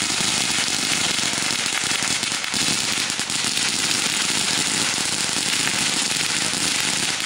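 A long strip of firecrackers going off on the grass in one unbroken, dense, rapid crackle of small bangs, loud and steady throughout.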